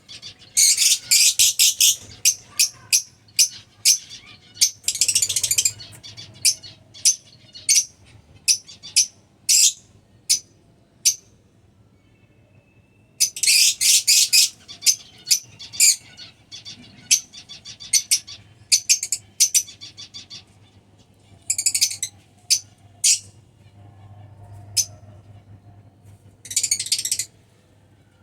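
Lovebirds calling: shrill, high-pitched chirps in quick chattering runs and single sharp calls, with a short quiet spell about halfway through.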